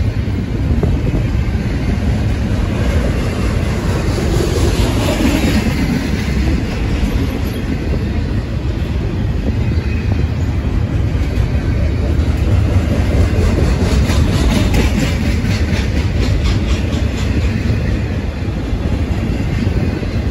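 Double-stack intermodal freight train's container well cars rolling past: a steady, loud rumble of steel wheels on rail, with rhythmic clicking of the wheels over the track through the middle.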